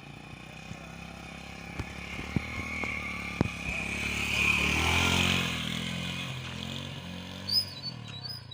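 Honda CD70 motorcycle's small single-cylinder four-stroke engine running as the bike rides past, growing louder to a peak about halfway through and then fading. A few sharp clicks sound early on the approach.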